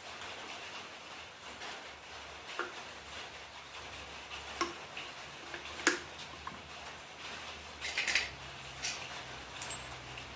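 Scattered light metallic clicks and clinks of motorcycle engine parts and tools being handled during assembly, the sharpest about six seconds in and a short cluster around eight seconds, over a faint steady hum.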